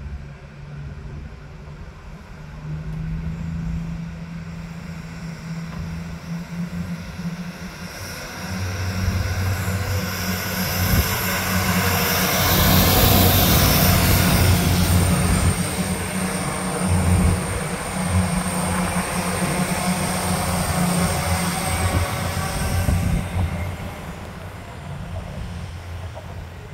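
Diesel multiple-unit passenger train pulling into a station platform. Its engines' low, steady hum grows louder to a peak about halfway through, with a hiss and a thin high whine as it runs in. The noise then eases while the engines go on running.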